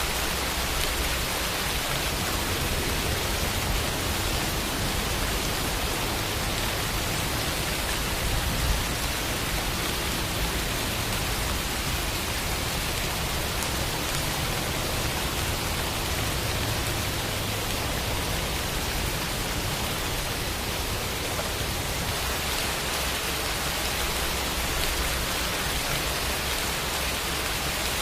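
Steady rain falling, an even hiss with a low rumble beneath, with one brief louder drop or patter about nine seconds in.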